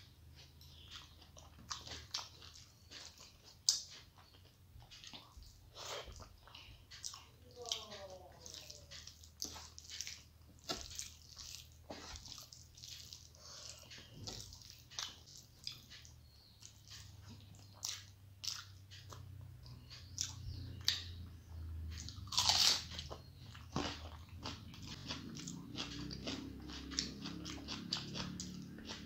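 A person chewing and crunching mouthfuls of rice and fish curry eaten by hand, with many sharp wet mouth clicks and smacks. One louder crunch comes about two-thirds of the way through.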